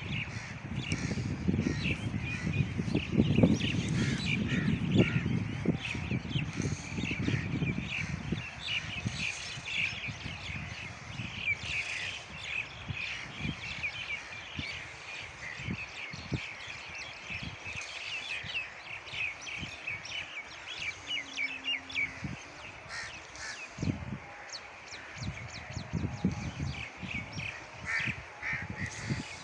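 A chorus of many birds chirping and calling at once, a dense, continuous chatter. A low rumble lies under it for the first eight seconds or so.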